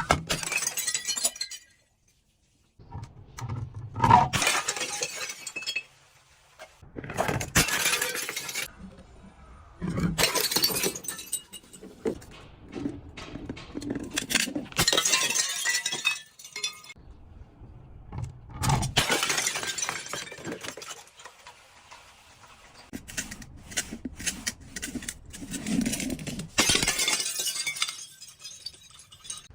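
Glass bottles being crushed and shattering: a series of crunching, clinking breaks a few seconds apart, each lasting a second or two.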